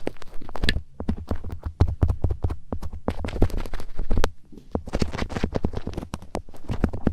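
Close-miked tapping and scratching on a daruma: a dense, irregular run of quick clicks and rubs with a low rumble of handling beneath, briefly easing off just before the last couple of seconds.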